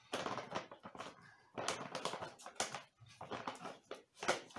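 Objects being handled on a work table: a handful of short, irregular rustling and clattering noises.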